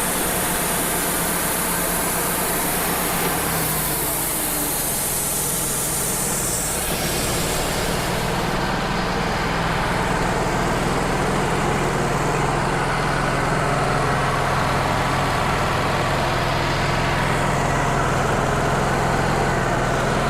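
Wood-Mizer LT35 hydraulic portable sawmill running steadily, its bandsaw blade cutting 5/4 boards from a red oak log; the blade has been dulled by nail strikes. A high, noisy cutting sound over the engine drops away about eight seconds in while the engine keeps running, and partly returns near the end.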